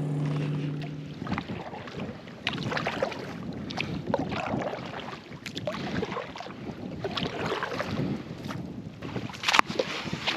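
Kayak on the water: a run of short splashing and knocking strokes over a noisy wash, with wind on the microphone. One sharp click or knock stands out a little before the end.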